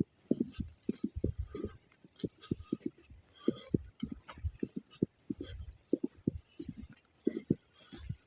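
Footsteps in a couple of inches of fresh snow: a quick, irregular run of soft low thumps.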